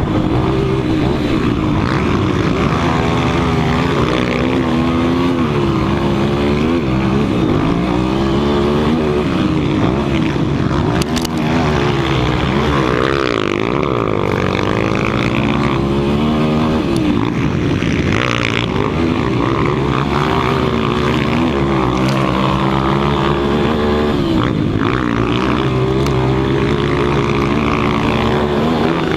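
Several 200 cc motocross bike engines running hard at once, their pitches rising and falling in overlapping waves as the riders rev, accelerate and back off.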